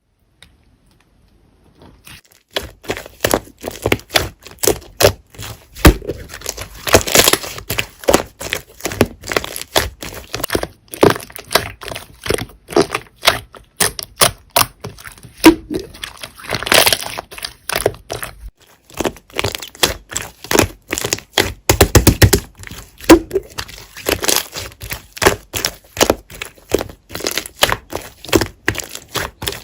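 Slime being pressed, squished and folded by hand, giving a dense run of sharp crackles and clicky pops. It starts about two seconds in, after near silence.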